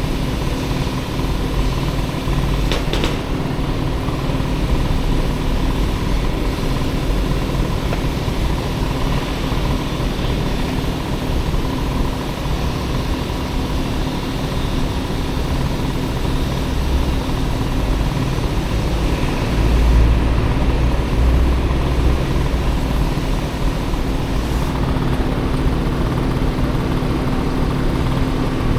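Small engine of a Honda Motocompo mini-scooter, swapped for a Honda Dio scooter engine, running steadily under way. A heavier low rumble rises briefly about twenty seconds in.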